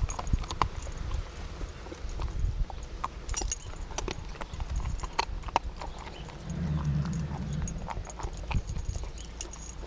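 Belgian Malinois/German Shepherd puppy crunching and chewing a large treat: irregular sharp clicks of teeth on the hard treat. A steady low hum runs for about a second and a half two-thirds of the way in.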